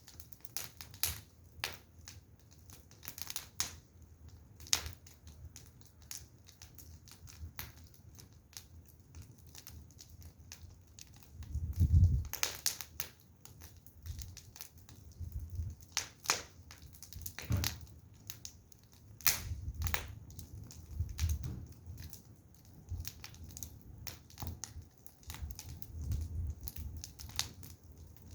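Wood fire burning, its logs crackling and popping at irregular intervals, with a few dull low rumbles, the loudest about twelve seconds in.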